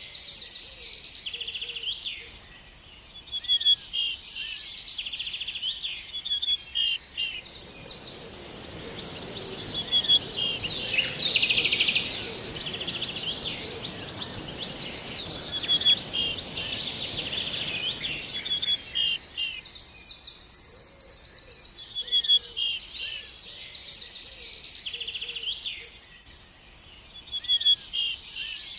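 Birds singing: a busy run of chirps, whistled notes and fast rattling trills, repeated again and again. From about seven seconds in, a steady rushing noise comes up beneath them and fades out after about twelve seconds.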